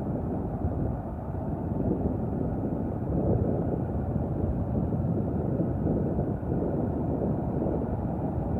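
Diesel engine of a 2012 International 4300 box truck running steadily.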